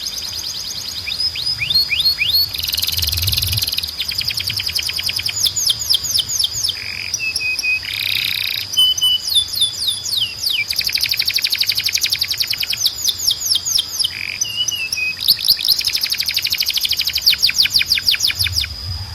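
Canary singing: fast trills of rapidly repeated sweeping notes, broken by a few short, lower whistled notes, over a steady high-pitched whistle.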